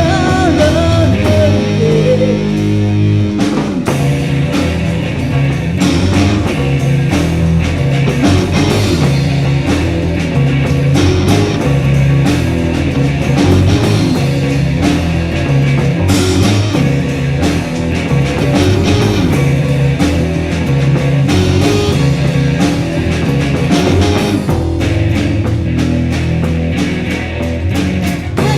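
Rock band playing an instrumental passage, with electric guitar and drum kit.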